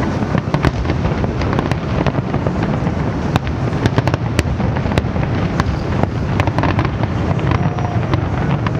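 Dense barrage of aerial fireworks in the finale of a show: rapid overlapping bangs and crackling over a continuous low rumble.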